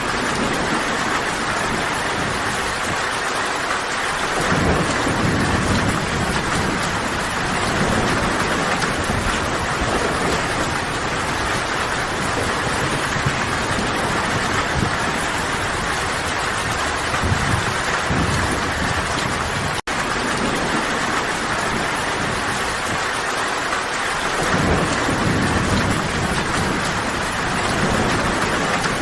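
Steady heavy rain falling, with low rolls of distant thunder swelling up three times. The sound cuts out for an instant about two-thirds of the way through.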